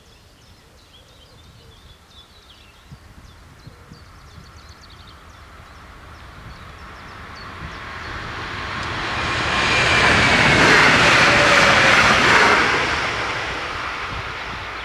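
A train approaching on the rails, growing steadily louder, passing loudest about ten to twelve seconds in, then fading away. Birds chirp faintly in the first few seconds.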